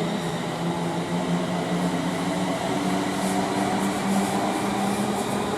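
Class 350 Desiro electric multiple unit pulling away from the platform, its traction motors giving a steady whine that climbs slowly in pitch as it gathers speed, over rumbling rail noise.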